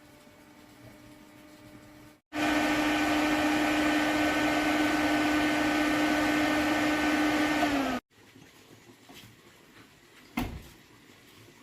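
A small electric motor running steadily with a hum and a rushing noise for about six seconds, starting and stopping abruptly. A single sharp knock comes near the end.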